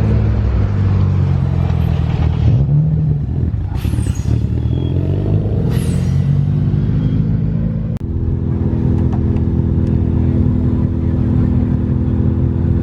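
A car engine running loud, revving up briefly with two short high-pitched sweeps, then, after a sudden change about two-thirds of the way in, holding a steady, even drone.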